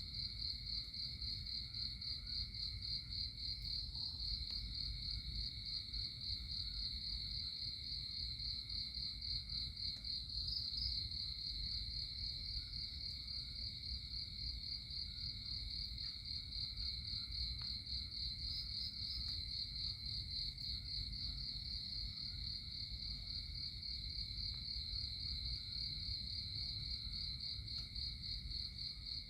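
Steady insect chorus, a continuous high trill of the cricket kind, over a low background rumble.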